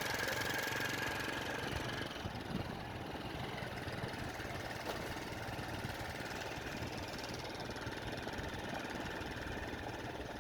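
Motorcycle engine running steadily under a passenger riding on it.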